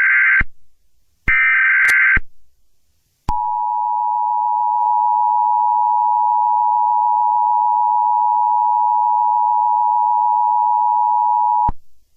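Emergency Alert System SAME header data bursts, about a second each: one ending just after the start and another about a second later. Then the EAS attention signal, two steady tones sounded together, holds for about eight seconds and cuts off abruptly.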